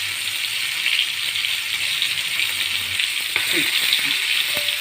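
Coated pomfret shallow-frying in hot oil in a frying pan, a steady sizzle. A single light click near the end.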